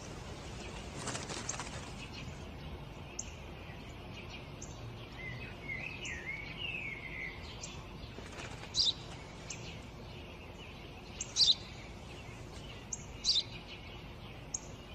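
Small birds chirping: short high chirps every second or two, with a brief warbling call about five to seven seconds in, over a steady outdoor background hiss.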